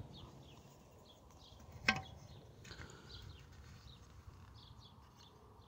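Quiet outdoor background with faint, scattered bird chirps, and a single sharp click about two seconds in.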